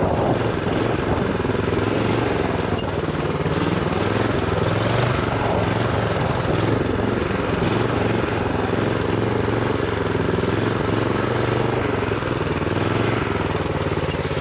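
Honda GX390 single-cylinder engine on a minibike running steadily while ridden, its pitch rising and falling slightly with the throttle. Its revs are held down by a throttle stop screw.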